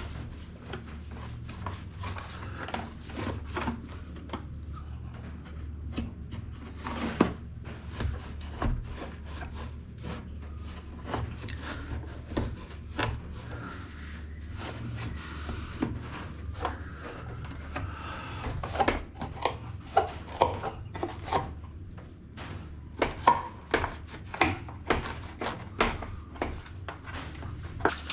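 Toothbrush scrubbing the small grid compartments of a washing-machine part, with frequent short knocks and taps as the part is handled.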